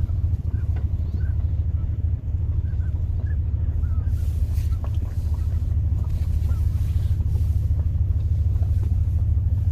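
Car running slowly, a steady low engine and road rumble heard from inside the cabin.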